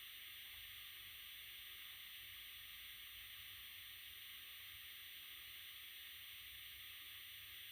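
Near silence: a steady faint hiss with no distinct events.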